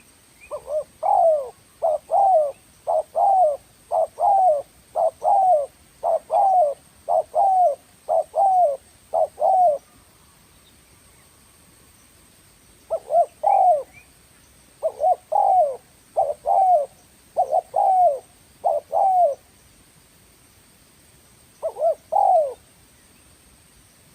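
Spotted dove cooing: a run of about nine short two-part coos at roughly one a second, a pause of about three seconds, a run of about six more, then a single coo near the end.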